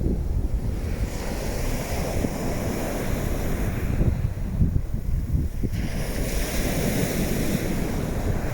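Wind buffeting the microphone with a constant low rumble, over surf washing on the beach; the higher hiss of the water swells twice.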